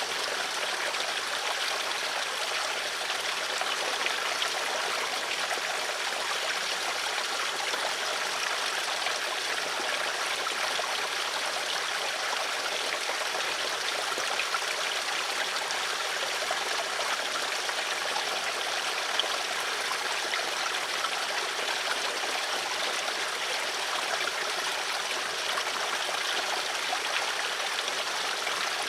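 Water flowing steadily in a small stream, an even rushing and trickling.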